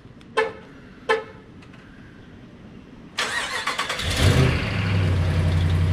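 Two short horn chirps from a remote start, then the truck's starter cranks for about a second and the cold engine catches and settles into a steady idle. The idle carries a tick that the owner identifies as an exhaust leak rather than a lifter tick, typical of a cold start before the manifold warms and seals.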